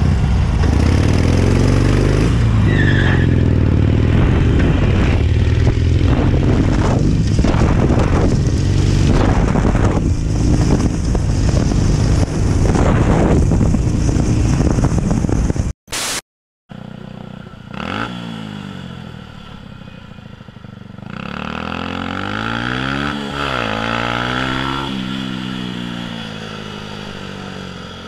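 Motorcycle riding sound from a helmet camera: about sixteen seconds of loud engine and wind noise, then a brief dropout and a motorcycle engine whose pitch rises and falls as it speeds up and slows.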